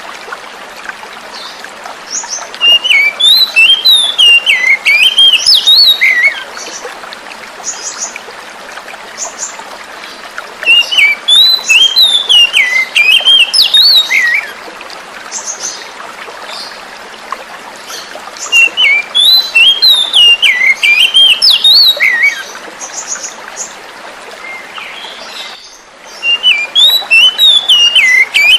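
Oriental magpie-robin song: loud bursts of quick, varied whistled notes, each a few seconds long, coming back about every eight seconds, four times. Between the bursts runs a steady sound of running water.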